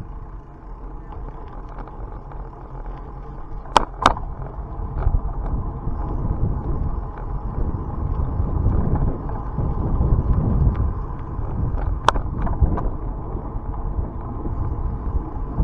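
Wind rumbling on the microphone with road noise from a bicycle being ridden. There are a few sharp clicks or knocks: two close together about four seconds in and one about twelve seconds in.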